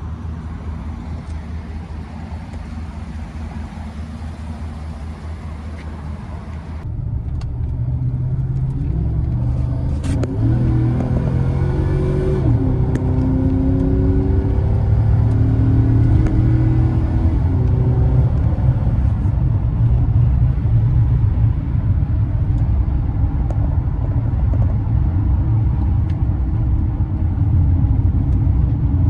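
A 2018 Chevy 2500's 6.0 Vortec V8 engine running. About seven seconds in the sound changes and grows louder, and the engine note rises and falls as it accelerates and shifts through the gears, then settles into a steady run.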